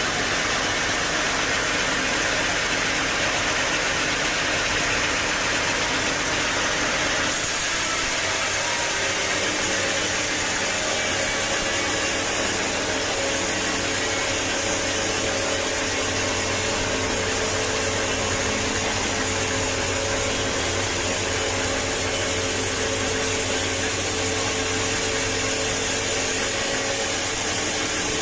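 Sawmill machinery running steadily with a constant motor hum and noise. The sound changes abruptly about seven seconds in, after which a steadier hum stands out.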